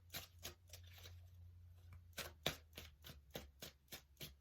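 Tarot deck being shuffled by hand: a run of quick, uneven card clicks and flicks.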